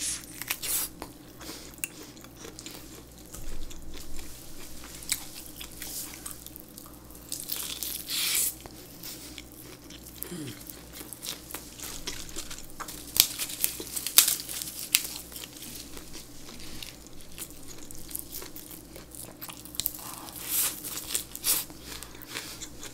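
Close-up biting and chewing of boiled pork belly and lettuce, with irregular crisp crunches and clicks from the mouth.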